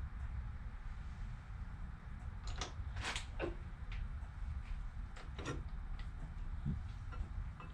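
A few sharp clicks and knocks of metal tools and parts being handled while a milling machine is set up, over a steady low hum.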